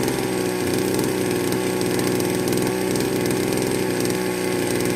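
Bernard Moteurs W14 15 HP engine running steadily at an even speed.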